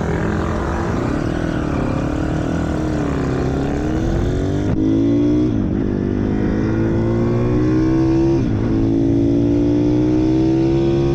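Pit bike's small single-cylinder four-stroke engine accelerating hard, its pitch climbing and then dropping back sharply three times, like gear changes, before it climbs again.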